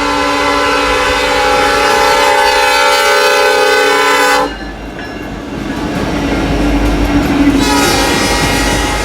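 Multi-note air horn of a leading CN SD70M-2 freight locomotive sounding one long chord of about four and a half seconds, then cutting off. After it the passing freight train rumbles and clatters, and a second horn blast starts near the end.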